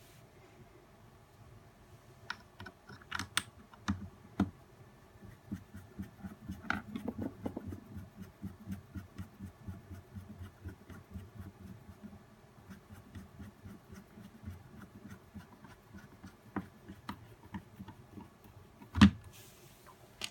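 Many small clicks and taps of hands working on the plastic parts of a nail dust collector, such as screws being turned and pieces being handled. A few louder knocks come in, the loudest shortly before the end.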